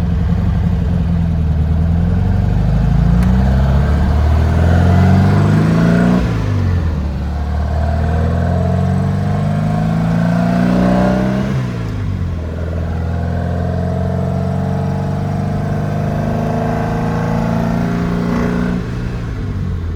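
VW Beetle's 1800cc air-cooled flat-four engine pulling the car through the gears. Its pitch climbs, drops at a shift about six seconds in, climbs again, and drops at another shift about twelve seconds in. It then runs fairly steadily and eases off near the end, with the freshly rebuilt transaxle shifting without noise.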